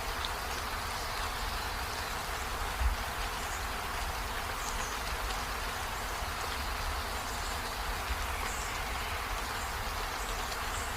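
Steady rain falling, an even hiss, with a brief low thump about three seconds in.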